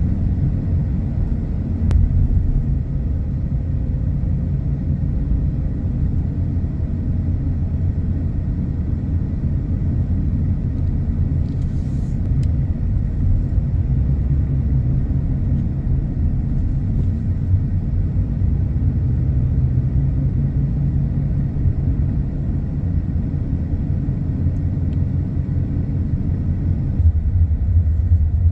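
Steady low rumble of a car driving: engine and tyre road noise, with a couple of faint ticks.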